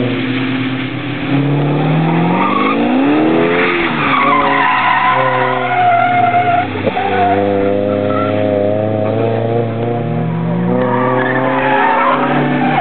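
V8 sedan engine revving hard as the car slides around a wet skid pan. The revs climb and fall several times and are held high through the middle.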